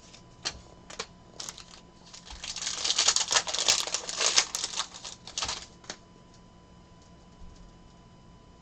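Trading cards being handled at a table: a few separate clicks, then about three seconds of dense, fast clicking and rustling that stops suddenly, as cards and their plastic or foil packaging are flicked and sorted.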